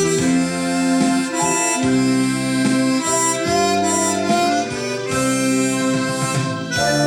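Harmonica playing a slow melody in long held notes and chords, moving to a new note every second or so.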